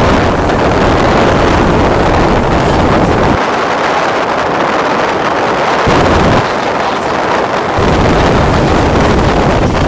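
Wind buffeting the microphone on a moving pontoon boat, over a steady rush of motor and water noise. The low wind rumble drops away for a few seconds near the middle.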